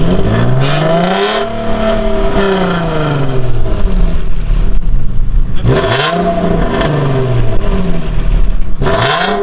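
Infiniti G37's 3.7-litre VQ37VHR V6 revved three times through a catless exhaust (test pipes, otherwise stock), each rev climbing in pitch and dropping back to idle.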